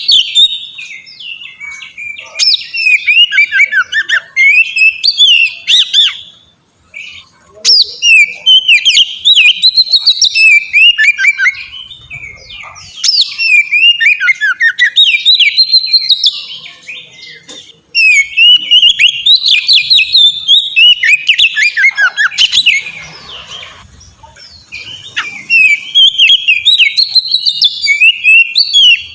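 Oriental magpie-robin (kacer) singing at full volume, a fast, varied run of clear whistles and chattering notes in bouts of several seconds with brief pauses between.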